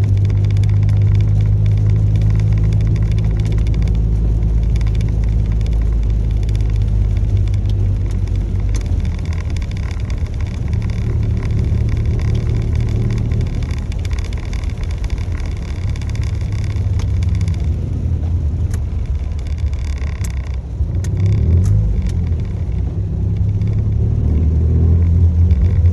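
A road vehicle running steadily: a low engine drone under an even rush of road noise.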